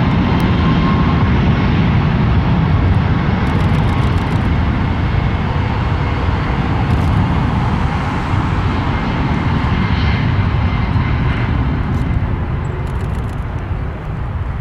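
Jet airliner's engines at take-off thrust: a loud, steady rumble with a faint high whine above it, easing slightly near the end.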